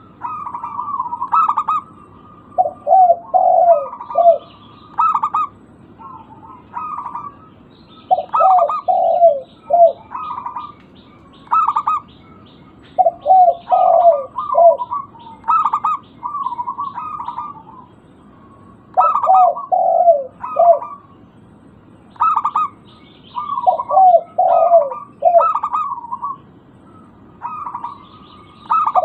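Zebra doves (local perkutut) cooing: phrase after phrase of quick, rolling coo notes, repeated every couple of seconds, with faint high chirping of small birds behind.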